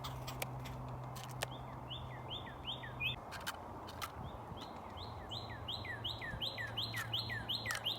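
A small bird calling a short, quickly repeated chirp, about three notes a second, with a few sharp clicks. A low hum stops about three seconds in.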